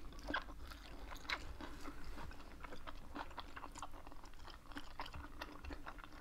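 Chewing and mouth sounds of people eating rice and pork dishes by hand: a steady run of small, sharp clicks.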